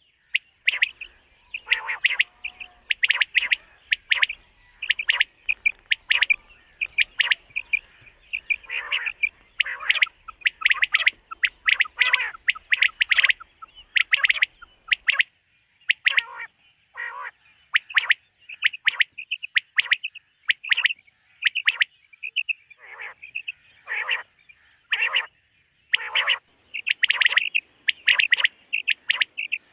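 Common quail calling: a steady run of short, sharp, repeated call notes in quick groups.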